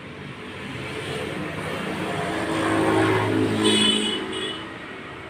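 A motor vehicle passing by: its engine grows louder to a peak about three to four seconds in, then fades. Two short high tones sound near the peak.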